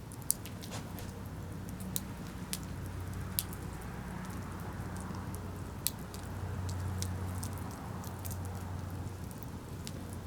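Campfire crackling, with a dozen or so sharp, irregular pops over a low steady hum.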